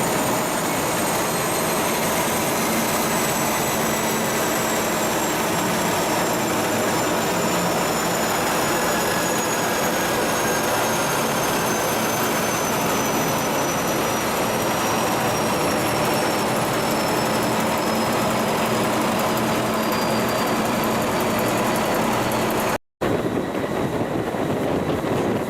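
A cargo ship's diesel engine machinery running loudly and steadily under way, with a high whine that slowly falls in pitch and a steady low hum. The sound cuts out briefly near the end and resumes duller.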